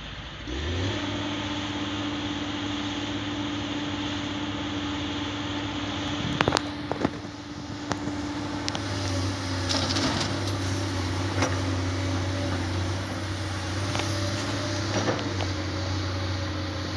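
Heavy construction vehicle's diesel engine picking up revs about half a second in, then running steadily. Several sharp knocks and clanks sound over it, the loudest two about six and a half seconds in.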